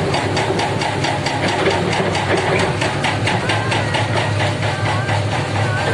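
Heavy diesel engine of an excavator or dump truck running steadily at low revs, with an even, rapid clatter.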